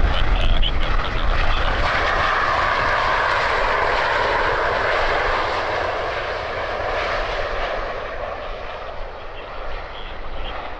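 Jet airliner passing close by, its engines a steady loud rush with a whine that drifts slightly lower in pitch, fading away over the last few seconds.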